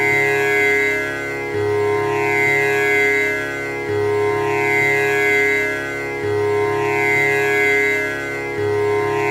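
Tanpura drone: its strings plucked one after another in a steady repeating cycle, a new round starting on the low string about every two and a third seconds, the notes sustaining into each other with a shimmering buzz in the upper overtones.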